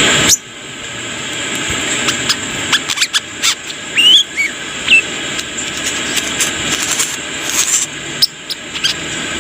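Brown-throated sunbird (kolibri kelapa) calling: a scatter of short, sharp high chirps and squeaky notes with a few brief gliding whistles, over a steady background hiss.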